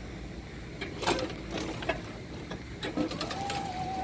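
Railway traffic at a level crossing: a steady low rumble with sharp clicks of wheels over rail joints, and about three seconds in a steady high tone starts and holds.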